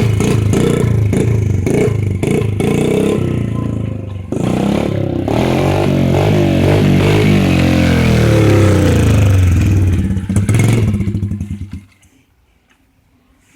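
Dirt bike engine running and revving, its pitch rising and falling, with clattering; the sound cuts off sharply near the end.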